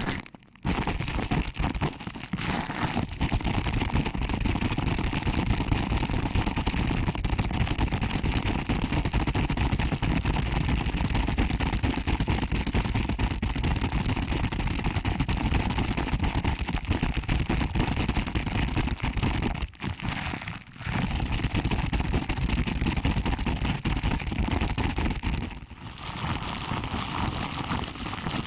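Close-miked pinching and rubbing of a binaural microphone's ears: a dense, crackly rustle that runs on with a few brief pauses.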